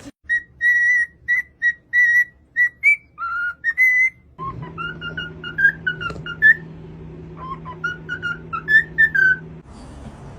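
A pet bird whistling a long run of short, clear notes, mostly at one pitch with a few rising ones. From about four seconds in, a steady low hum runs beneath the whistles and stops shortly before the end.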